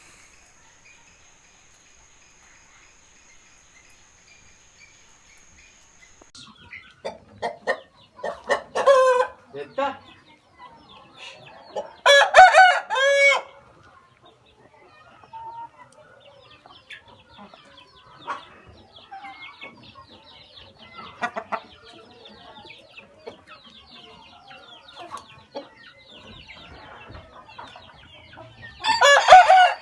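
Parrot-beak Aseel chickens calling: scattered clucks, then a loud rooster crow about halfway through and another starting near the end, with faint chirping in between.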